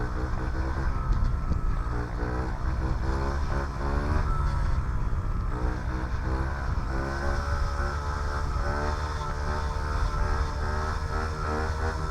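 2007 Honda CRF50F's small single-cylinder four-stroke engine running while ridden, its pitch rising and falling again and again as it revs up and eases off.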